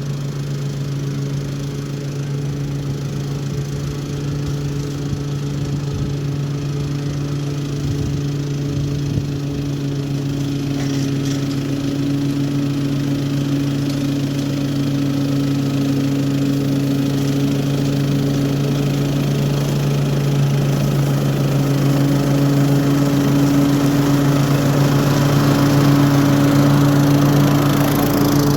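Toro HDX 30-inch self-propelled walk-behind mower with a mulching kit, its engine running steadily under load while cutting grass. It grows gradually louder.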